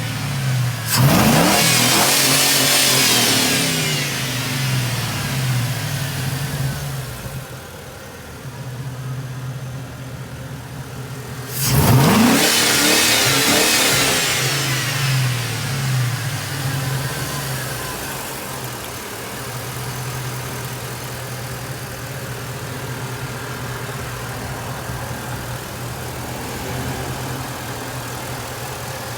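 Swapped-in LS 5.3 Vortec V8 in a 1951 Chevy pickup, idling and blipped twice: a quick rev about a second in and another near the middle, each falling back to idle, then running at a steady idle.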